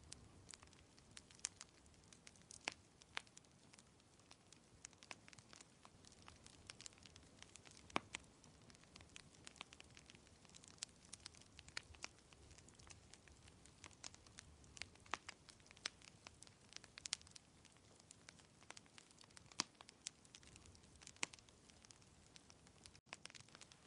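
Wood fire crackling: irregular sharp pops and snaps, several a second, over a faint low hiss, with a momentary dropout near the end.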